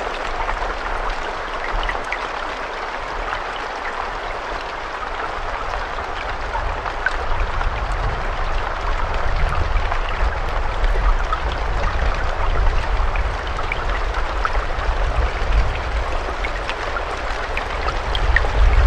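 Steady rain with scattered individual drop hits over a dense hiss. A low rumble underneath grows louder about six seconds in.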